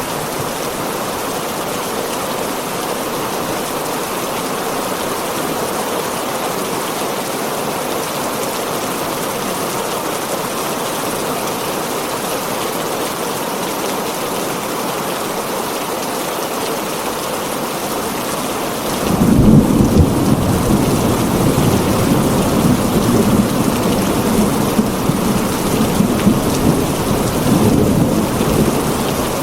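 Heavy rain on a tin roof, a steady hiss. About two-thirds of the way in, a thunderclap breaks in and rolls on as a low rumble for some ten seconds before dying away near the end.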